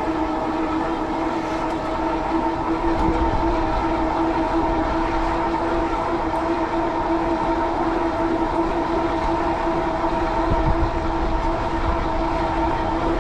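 Fat-tyre e-bike with a Bafang rear hub motor riding at a steady speed: a steady droning hum with overtones from the hub motor and fat tyres. Gusty wind rumbles on the microphone underneath.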